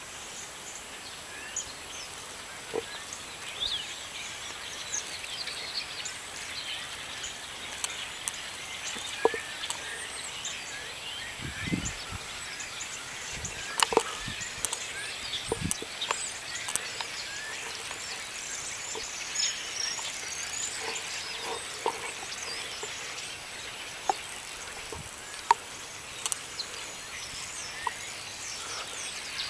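Light rain falling: a steady soft hiss with scattered sharp taps and high chirping ticks through it.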